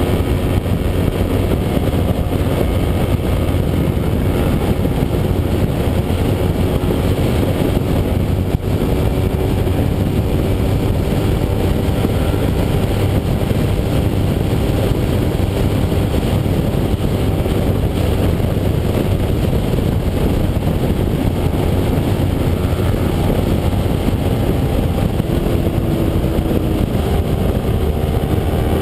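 Kawasaki Ninja 250 parallel-twin engine running steadily at riding speed, mixed with heavy wind rush.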